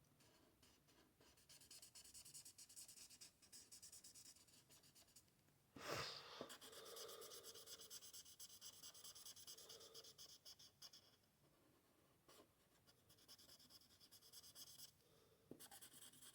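Faint scratching of an Ohuhu marker nib on paper as colour is laid down and blended in short, repeated strokes. There is one sharp click about six seconds in.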